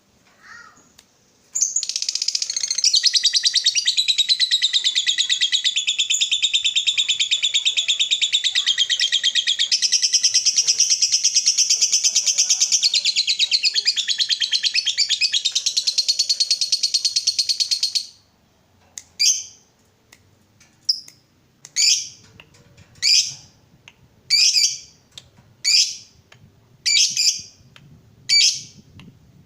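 Lovebird giving a long, rapid chattering trill (the 'ngekek panjang' prized in fighter lovebirds) for about sixteen seconds. It then breaks off into a string of short, sharp calls a little over a second apart.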